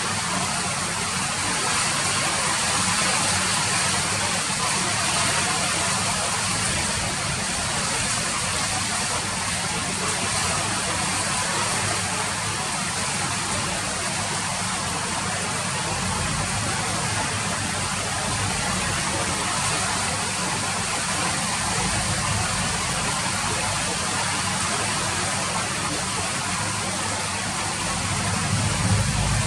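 Steady rain falling, an even hiss with a low rumble underneath that swells slightly near the end.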